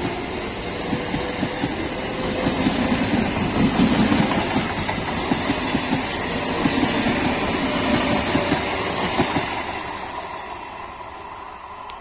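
Eastern Railway electric multiple unit local train with Medha coaches passing close by, its wheels clattering over the rail joints over a steady rushing noise. The clatter stops about nine and a half seconds in, as the last coach goes by, and the sound then fades away.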